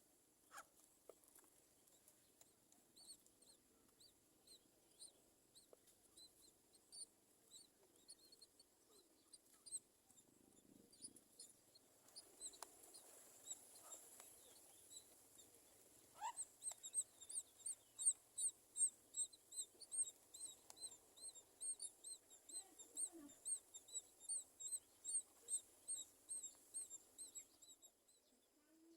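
A bird calling over and over with short high chirps, about two a second, faint at first and growing louder about halfway through.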